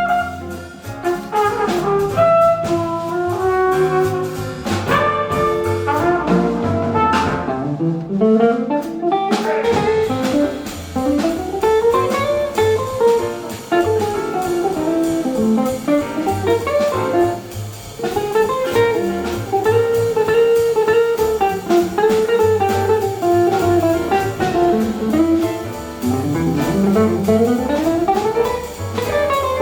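Small jazz group playing: held flugelhorn notes over double bass and drums, giving way after about seven seconds to fast guitar runs that rise and fall.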